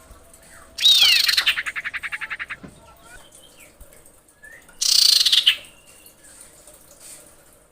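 Female common iora calling: about a second in, a loud falling whistle runs into a rapid rattle of notes that fades away, and about four seconds later comes a second loud, rough call ending in a short falling note. Fainter bird calls sound in between.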